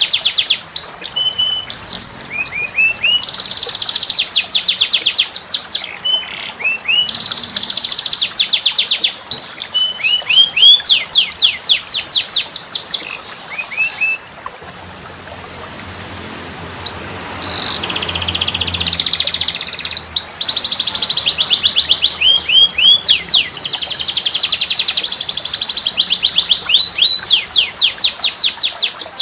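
Songbird song from a masteran tutor recording: dense, rapid trills of repeated sweeping notes and sharp high chirps. The song breaks off for about three seconds near the middle, then resumes just as busy.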